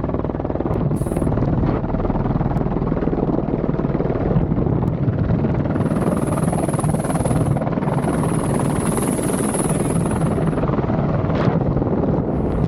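Helicopter running loud and steady close by: rotor and engine noise, with a high thin whine coming in twice in the middle.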